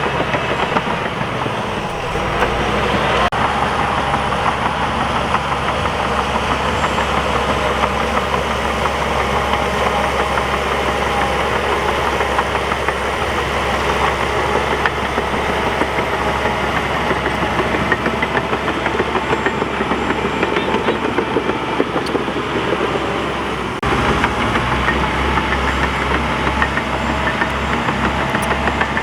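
Heavy crawler bulldozer's diesel engine running steadily, with abrupt shifts in the sound about three seconds in and again near the end.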